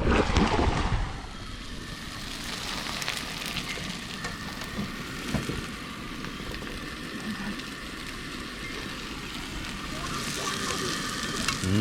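Onions frying, a steady sizzle. A louder burst of noise comes in the first second.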